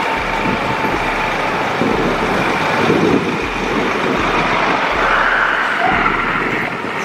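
Steady road traffic noise: vehicles running on a city street, with no distinct single event standing out.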